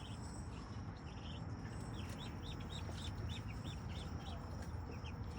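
Muscovy ducklings peeping: a string of short, high peeps, about three a second, with crickets trilling steadily.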